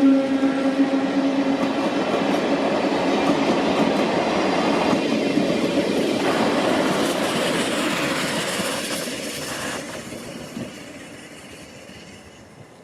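Six-car train of a Deki 100 electric locomotive, old-type passenger coaches and the C58 steam locomotive passing, its wheels rattling over the rails. It fades away over the last few seconds as the train moves off.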